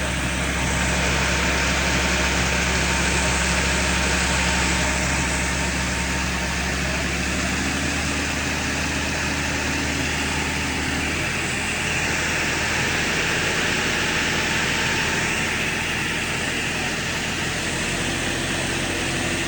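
Tractor engine running steadily to drive a hydraulic pruning attachment, its pitch stepping to a new speed a few times, about eight and eleven seconds in and again near the end, over a steady hiss.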